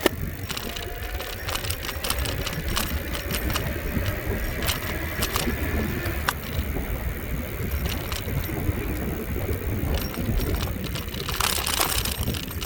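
Wind rumbling on the microphone of a camera carried on a moving bicycle, with frequent small clicks and rattles. A faint thin whine slowly rises and fades out about halfway through.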